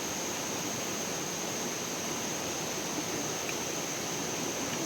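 Steady rush of flowing stream water, with a constant thin high-pitched whine over it.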